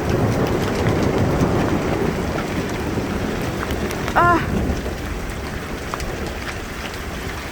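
Heavy rain mixed with marble-size hail pelting down: a dense, steady clatter full of sharp ticks from the hailstones, easing slightly toward the end. A short, high cry cuts in about four seconds in.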